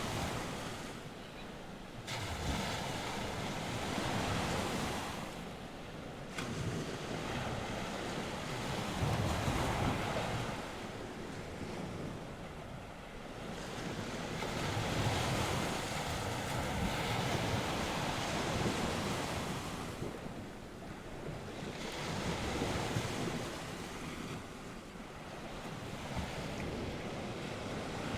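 North Sea waves washing onto the shore, the surf swelling and fading every few seconds, with wind in the background.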